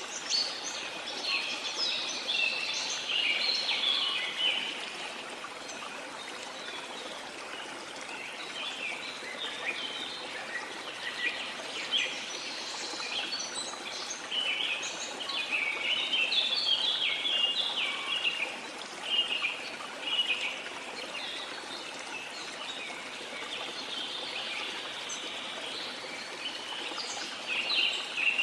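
Birds chirping in quick bouts over the steady rush of a waterfall.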